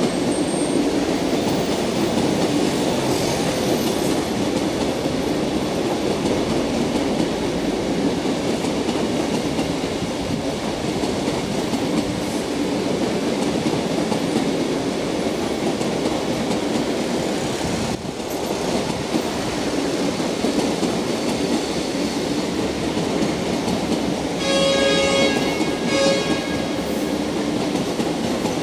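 China Railways CRH1E high-speed sleeper train set rolling slowly past, with a steady rumble of wheels on rails. A horn sounds for about two seconds near the end.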